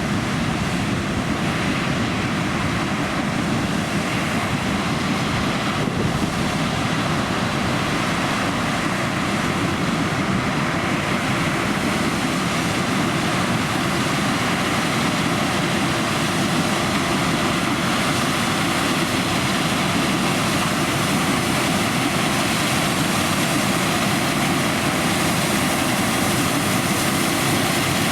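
John Deere X9 1100 combine harvester running steadily under load while combining oilseed rape, a constant engine and threshing drone with no change in pitch.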